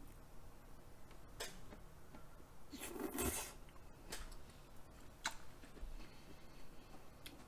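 Faint close-miked mouth sounds of someone chewing a mouthful of raw beef tartare (yukhoe). There are a few soft clicks and one louder wet mouth noise about three seconds in.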